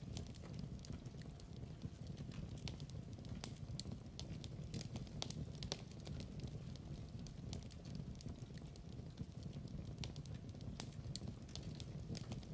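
Log fire crackling in a fireplace: irregular sharp pops and snaps over a low steady rumble of burning.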